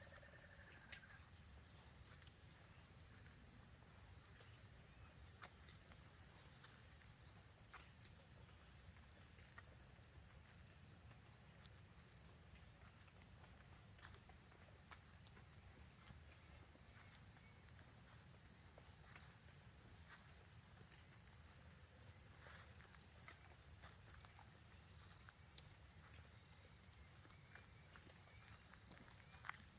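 Faint steady chorus of insects, a continuous high-pitched trill with no break, over a low background rumble and a few scattered faint clicks.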